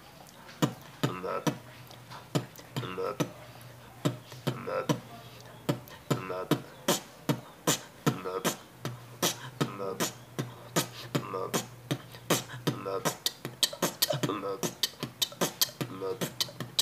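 Human beatboxing: a rhythmic pattern of sharp mouth-made percussive hits with short voiced sounds between them, growing faster and denser about halfway through.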